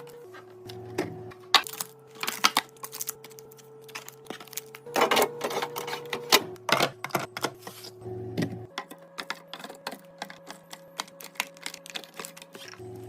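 Rapid clicks, taps and clatter of containers and food items being handled and set down while a fridge is stocked, with busier bursts about two seconds and five seconds in. Soft sustained music notes change pitch every few seconds underneath.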